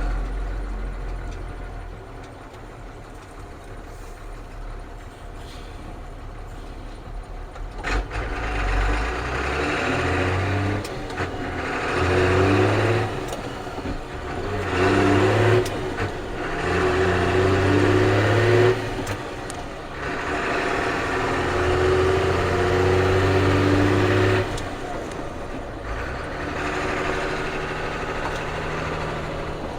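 Ford CF7000's 6.6-litre Brazil diesel engine idling low and quiet, then about eight seconds in pulling away and accelerating. It pulls in several stretches, each broken by a short dip for a gear change.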